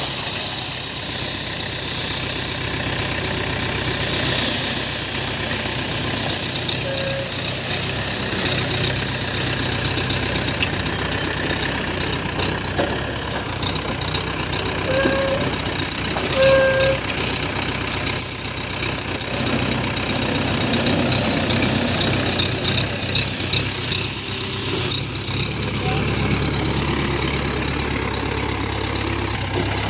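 Heavy diesel engines of a JCB backhoe loader and trucks running steadily at a loading site, with voices mixed in.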